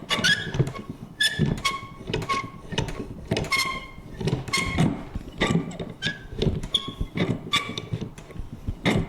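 Vintage paper punch working over and over, about two clunking strokes a second, each with a short metallic ring.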